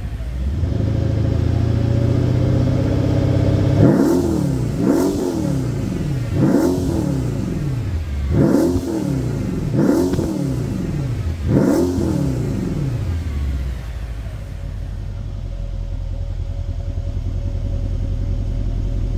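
The 5.5-litre twin-turbo V8 of a 2011 Mercedes-Benz CL63 AMG, heard from its exhaust. It runs steadily at first, then is revved in six quick blips from about four seconds in, each rising and dropping back, and then settles to an even idle.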